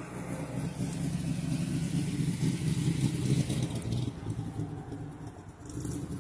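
A car engine running, growing louder to a peak about halfway through and then fading, as a car passes close by.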